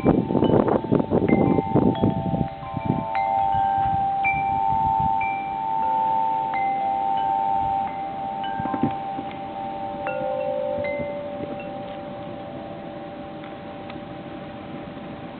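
Wind chimes struck by gusts of a blizzard wind, clanging and ringing out with several overlapping tones. Strong wind buffets the microphone in the first couple of seconds. After that the strikes grow sparser and the ringing fades.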